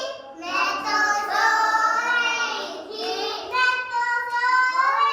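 A high-pitched voice singing in held, wavering notes, phrase after phrase, with short breaks between them.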